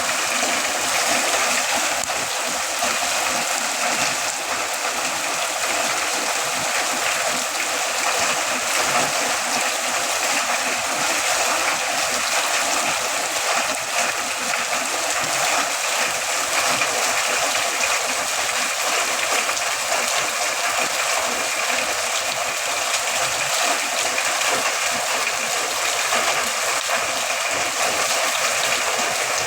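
Heavy rain falling steadily, an even hiss of dense raindrops.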